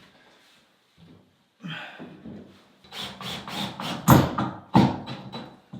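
A run of sharp knocks on wood, the two loudest about four and five seconds in: a hammer nailing trim boards onto a log cabin.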